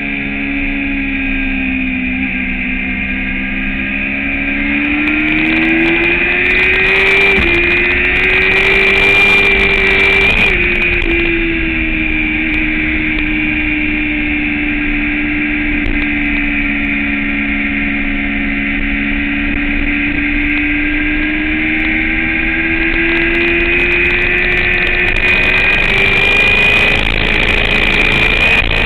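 Sport motorcycle engine running under load, heard from on the bike: the revs climb and drop sharply twice, about seven and ten seconds in, as it shifts up, then fall away slowly and build again. A steady high whine sits above the engine throughout.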